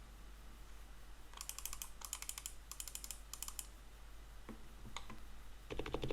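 Typing on an ABKO Hacker K995P V3 mechanical keyboard: four short bursts of keystrokes, a couple of single key presses, then fast continuous typing starting near the end with a deeper, fuller sound.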